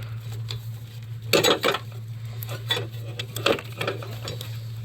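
Irregular clicks and knocks of hard parts being shifted and bumped about in a car's engine bay as a component is worked out of the way, loudest about a second and a half in, over a steady low hum.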